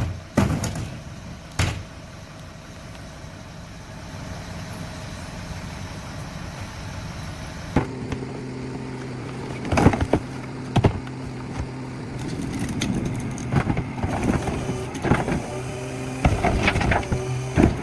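Garbage truck at work: a steady engine or hydraulic hum comes in about eight seconds in, with a few sharp knocks before it and several loud bangs over it, most of them near the end.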